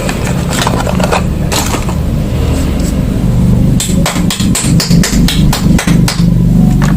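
Soap bars and their packaging being handled and opened: a run of crisp clicks, taps and crinkles, busiest from about four seconds in, over a steady low hum.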